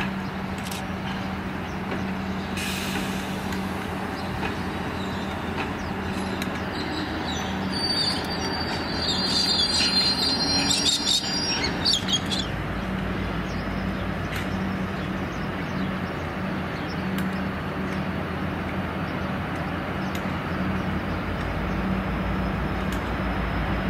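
Passenger carriages rolling slowly through yard trackwork with a locomotive's diesel engine humming steadily. From about a third of the way in there are a few seconds of high-pitched wheel squeal. Then the V/Line A class diesel-electric locomotive A66 runs close by with a deeper engine rumble.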